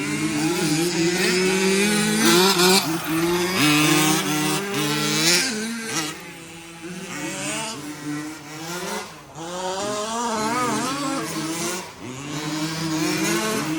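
Several remote-control 4WD race trucks' motors whining at once, each pitch rising and falling as the trucks speed up and slow down around the track, the tones overlapping.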